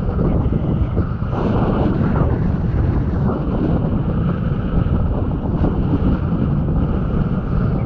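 Strong wind buffeting the action camera's microphone: a loud, steady, rumbling rush of noise.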